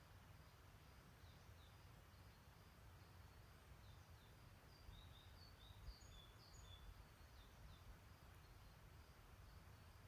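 Faint small-bird chirps, many short high notes repeated through the clip and busiest in the middle, over a steady low rumble and soft background hiss.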